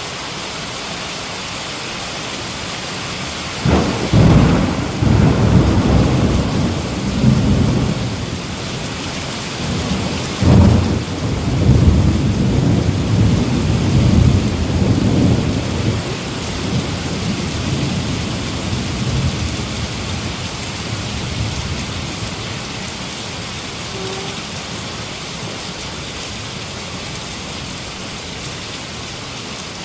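Heavy rain falling steadily, with two thunderclaps, the first a little under four seconds in and the second about ten seconds in, each breaking into a low rolling rumble that dies away over several seconds.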